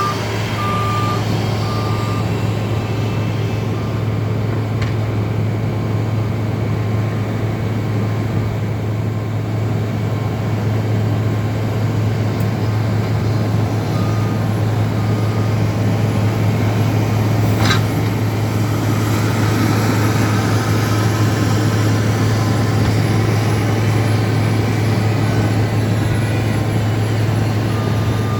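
Snow-plowing loader and skid steer engines running steadily under load as they push snow, with a backup alarm beeping in short runs near the start, around the middle and near the end. A single sharp knock about eighteen seconds in.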